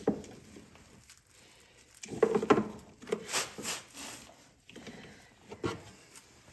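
A few irregular knocks and scraping sounds from hands and tools working around the machine; no starter motor cranks.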